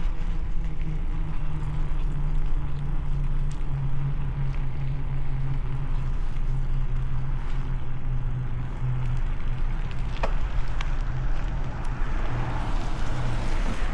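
A motor vehicle's engine running close by, a steady low hum, over a low rumble of wind and road noise.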